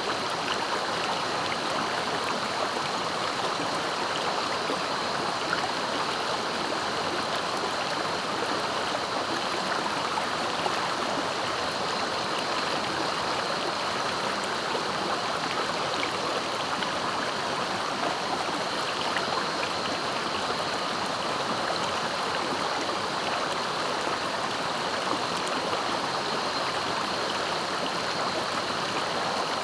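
A clear, swift river flowing over rocks: steady rushing and splashing of fast water.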